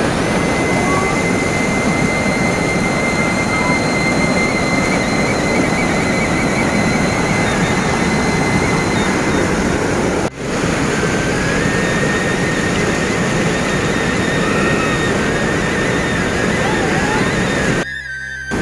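Panimur waterfall's steady rush of falling water, a loud even noise that briefly drops out about ten seconds in and again near the end.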